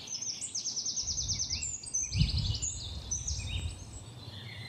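Several small birds singing high, fast trills and chirps over one another, with a low rumble about two seconds in.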